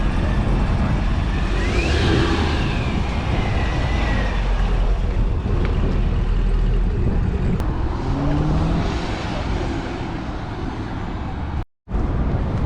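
Car engines running, with a low rumble throughout and one engine revving up about eight seconds in; the sound drops out briefly near the end.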